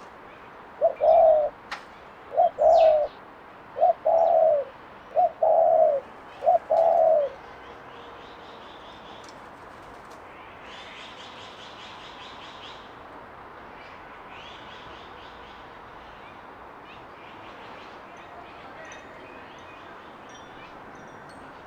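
A dove cooing five times in a regular series of low two-part coos, loud and close. Afterwards, small songbirds chirp faintly over a steady outdoor hiss.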